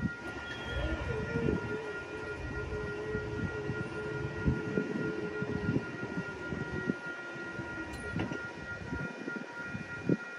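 A train passing, with rail rumble and irregular low clanks. Several steady, high-pitched ringing tones sound over it, and a lower tone slowly falls in pitch over the first several seconds.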